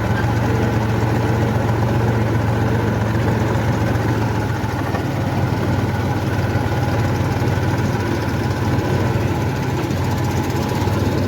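Mahindra 275 DI tractor's three-cylinder diesel engine running steadily at low revs.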